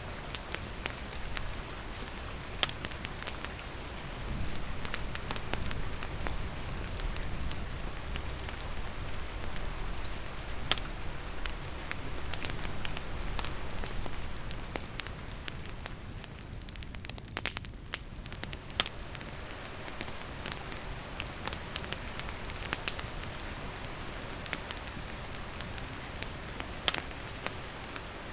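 Steady rain falling, mixed with the crackle of a wood campfire: sharp irregular pops and snaps from the burning wood over the even hiss of the rain.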